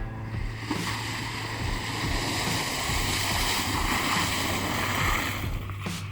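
Water rushing and splashing as a truck drives through a shallow river, swelling about a second in and dying away near the end.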